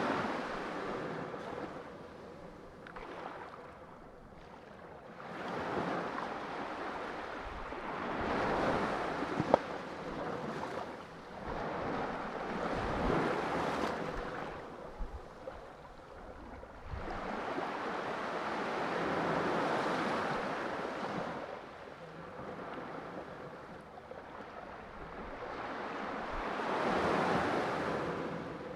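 Sea waves washing onto a shore, the surf noise rising and falling in slow swells every several seconds. About ten seconds in there is one brief sharp click.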